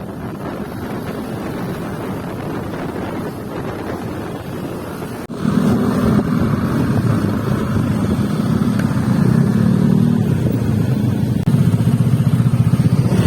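Motorcycle engine running. For the first five seconds it is under a steady rushing noise; then it suddenly becomes much louder, a low, rapid engine beat.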